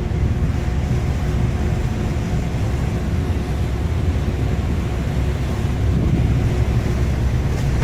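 Steady low rumble of a ship's engines and machinery, with a faint steady hum, under the noise of storm wind and sea.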